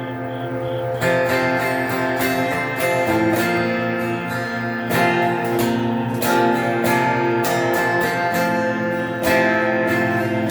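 Electric guitar played through an amp with reverb, strumming chords that change every second or two.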